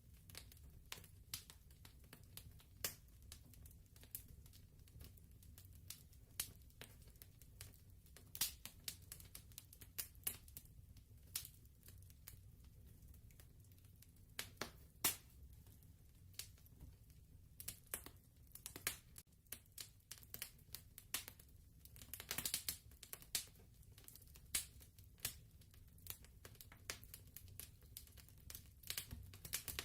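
Fireplace crackling: irregular sharp pops and snaps over a low steady rumble, with a denser run of crackles a little past the middle.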